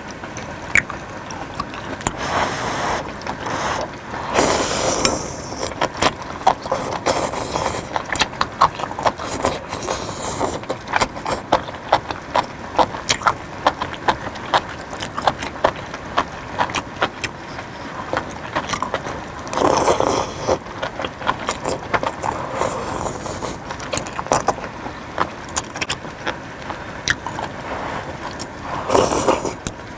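Close-miked eating sounds: a steady run of wet clicks and smacks from chewing a soup of beef, vegetables and noodles, with a few longer, louder slurps about 2, 4, 20 and 29 seconds in.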